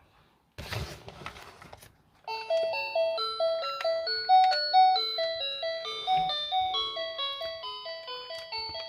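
A toy's electronic sound chip playing a simple tinny chime melody of short, evenly paced notes, starting about two seconds in after a brief rustle.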